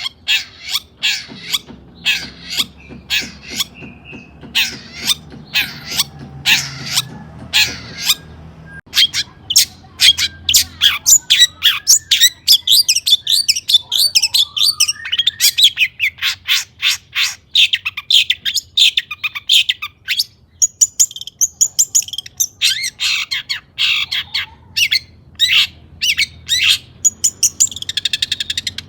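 Long-tailed shrike (cendet) singing hard: a rapid run of short, sharp, high chattering notes, with a brief pause about a third of the way through before the notes come thicker again.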